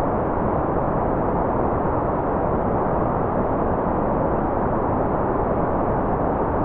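Continuous generated white noise, an even, unchanging rushing sound that is dull rather than hissy.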